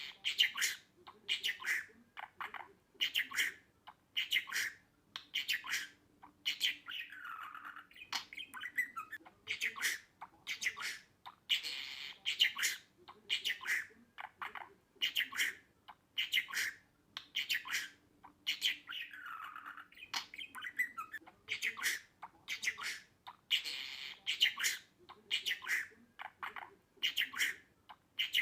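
Budgerigars chirping and chattering in quick runs of short, high calls with a few downward-sliding squawks. The same stretch of calls comes round about every twelve seconds, as in a looped recording.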